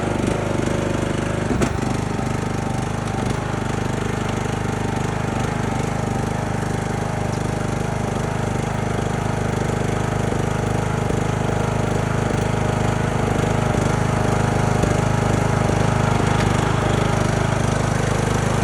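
Troy-Bilt garden tractor's engine running steadily.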